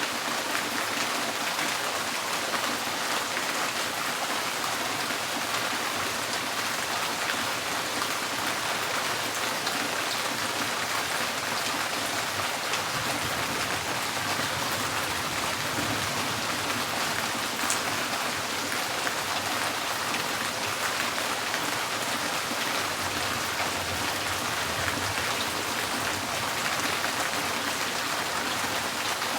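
Steady rain drumming on a tin roof: a dense, even patter of many drops.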